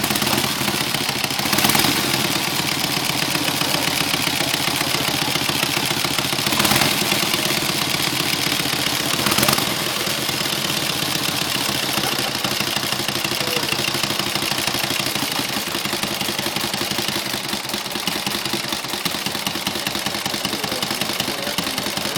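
1912 Excelsior motorcycle engine running steadily just after being started, with brief louder surges about two, seven and nine and a half seconds in.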